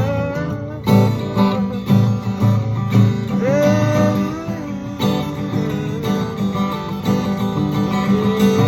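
Acoustic guitar strummed in a slow worship song, with a few long wordless sung notes drifting over it.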